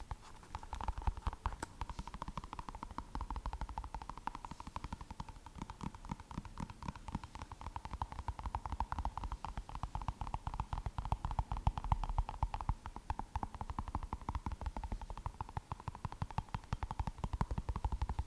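Rapid, continuous fingertip tapping on a small glowing light-up object, many quick taps a second, recorded close up for ASMR.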